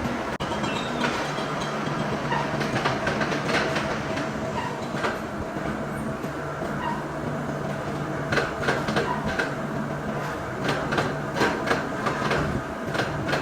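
Machine-shop machinery running steadily with a low hum, joined by scattered metallic clicks and knocks that grow more frequent in the second half.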